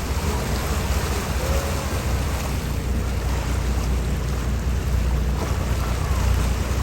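Steady wind noise on the microphone over water, with a constant low rumble underneath.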